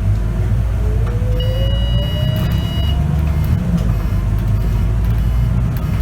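Scania K94UB bus's engine and ZF automatic gearbox running with a heavy low rumble and a whine that rises steadily in pitch over the first three seconds. A steady high beep sounds for about a second and a half, starting about a second and a half in.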